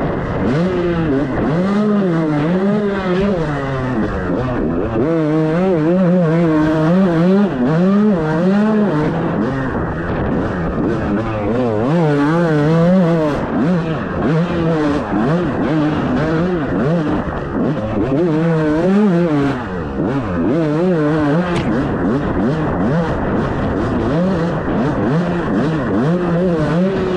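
Dirt bike engine under way, its pitch rising and falling every second or so as the throttle is opened and closed.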